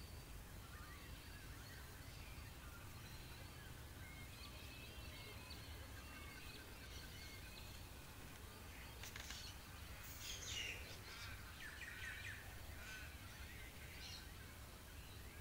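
Birds chirping and calling faintly in the background over a low steady hum, with a few louder, sharper calls about two-thirds of the way through.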